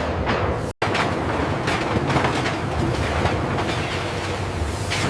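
Steady rumbling, clattering machinery noise full of small rattles, broken by a momentary dropout just under a second in.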